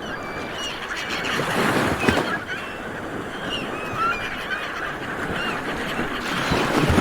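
A flock of seabirds calling all at once: many short, overlapping honking calls over a steady background hiss.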